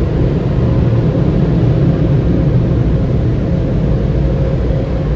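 Automatic car wash air dryers blowing with a loud, steady roar, heard from inside the vehicle's cabin.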